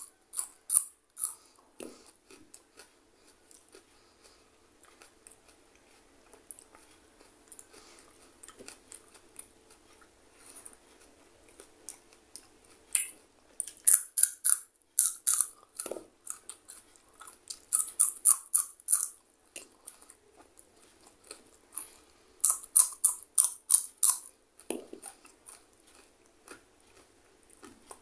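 Raw green chillies being bitten and chewed close to the microphone: four bursts of crisp crunching, with quieter chewing between them.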